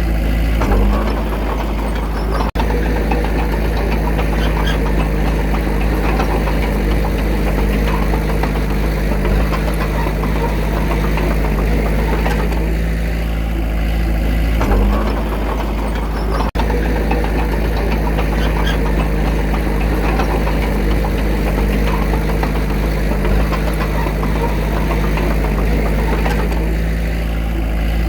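Komatsu D21A bulldozer's diesel engine running steadily under work, its note shifting about a second in and again about halfway through. The sound cuts out for an instant twice.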